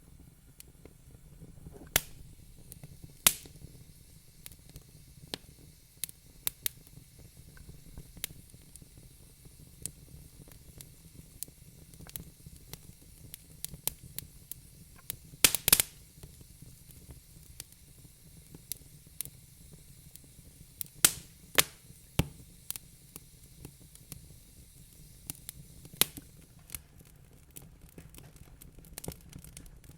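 Wood fire crackling in a fireplace: a steady low rumble with irregular small snaps and a few sharp, loud pops, several clustered together near the middle.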